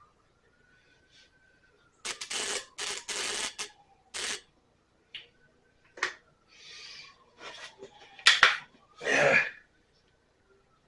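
Irregular workshop handling noises: scraping and rustling about two seconds in, then scattered metallic clicks and knocks, the loudest a pair of sharp knocks a little past eight seconds followed by a brief rush. The hit-and-miss engine is not running.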